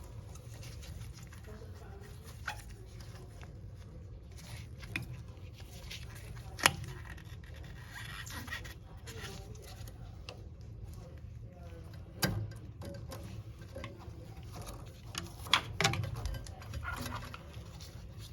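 Scattered metallic clicks and knocks of hand tools and parts being handled while fitting a gas water heater's pilot assembly and gaskets, the sharpest about six and a half seconds in and a cluster near the end, over a low steady hum.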